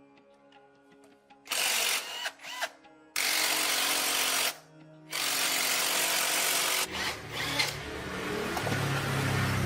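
Three bursts of a power tool, each lasting from half a second to nearly two seconds, over background music. From about seven seconds in, a low motor hum builds.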